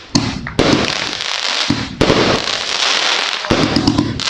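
Lucky Party fireworks firing: a quick series of loud shots and bursts, several a few seconds apart, with crackling between them.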